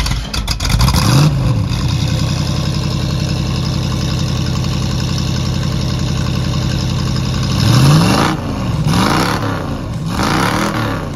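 A 1965 Ford Mustang's engine running through its dual exhaust. It is revved once about a second in, runs steadily, and is then revved three times in quick succession near the end.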